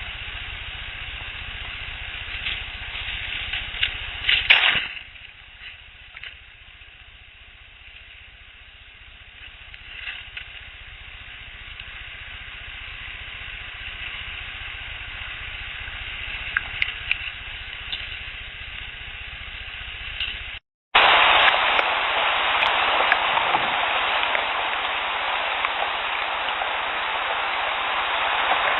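Field-recorder audio from the woods: quiet background with a few faint clicks and one sharper crack about four and a half seconds in. After a brief cut about two-thirds of the way through, a steady loud hiss of noise takes over.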